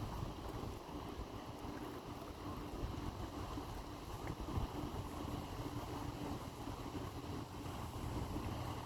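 High-speed passenger boat coming into harbour, its engines giving a steady low rumble and hum, with wind on the microphone.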